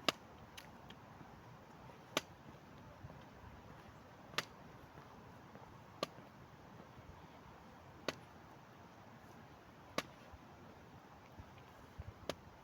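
Sharp single clicks, one about every two seconds, with two close together near the end, over a faint steady hiss.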